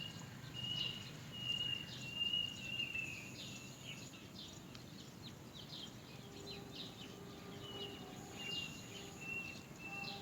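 Bird calls: many short, high, falling chirps, typical of a great myna chick begging for food, with a repeated high whistled note in the first few seconds and again near the end, over a low steady hum.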